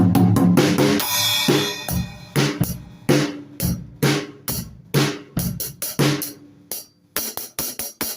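Drum kit played freely: a fast run of drum strokes, a cymbal crash ringing about a second in, then scattered snare and tom hits, a brief pause near the end and a quick run of light hits.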